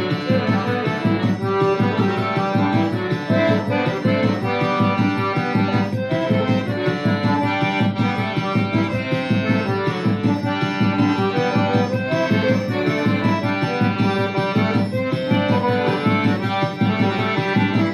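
Accordion (sanfona) playing a lively São João folk tune over a steady drum beat.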